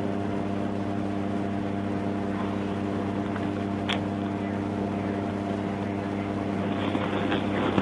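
Steady low hum of an idling vehicle engine, with a single sharp click about four seconds in.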